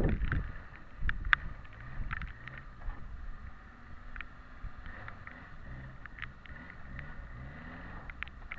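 Suzuki Samurai long-wheelbase 4x4's engine running at low revs as it crawls over rocks, its note rising briefly with small throttle blips several times, with scattered sharp clicks and knocks.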